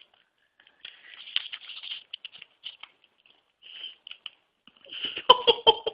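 A cat nibbling a marshmallow off a sheet of paper held for it: paper crinkling and small chewing clicks in short bursts, louder near the end.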